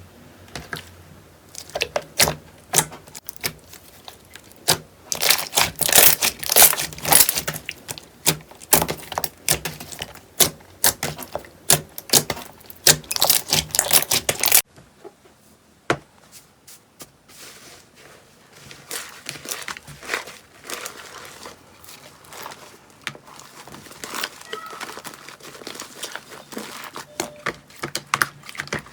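Slime being squeezed and poked by hand, giving rapid sticky clicks and crackles. About halfway through the sound changes abruptly to a quieter, sparser run of softer clicks.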